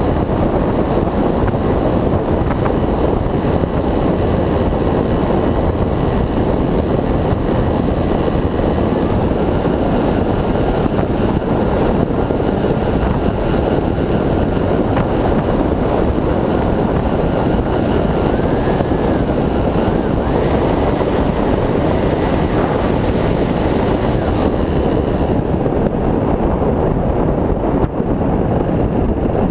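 Steady wind rush over the camera on an electric RC plane in flight, with a faint motor and propeller whine underneath whose pitch steps up and down a few times as the throttle changes.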